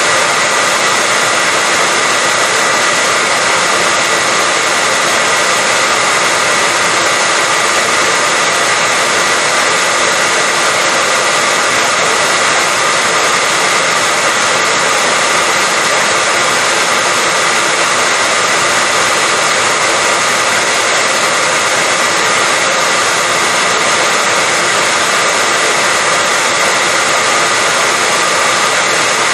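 Hair dryer running steadily without a break: an even whooshing noise with a faint high whine held on one pitch.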